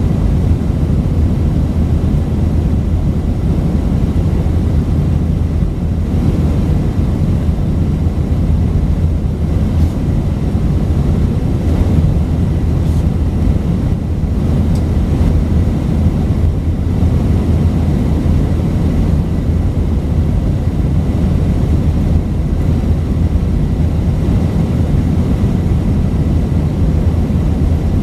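Steady cabin noise inside an Airbus A319-132 with its IAE V2500 turbofan engines running: a constant, even low rumble with no rise or fall.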